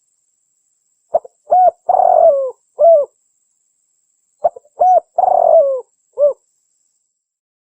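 Spotted dove cooing: two phrases of four coos each, about three seconds apart, the third coo in each phrase longer and falling in pitch.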